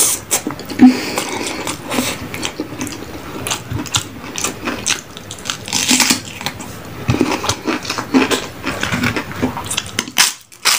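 Close-miked eating: chewing and mouth sounds with irregular small clicks and crunches.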